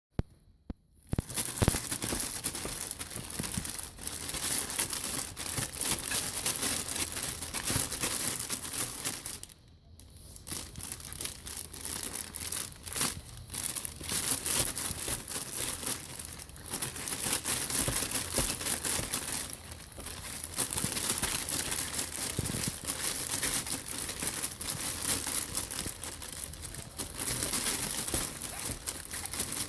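Continuous crinkling and crumpling of crinkly material, with some tearing sounds, as something is handled and scrunched, pausing briefly about ten seconds in.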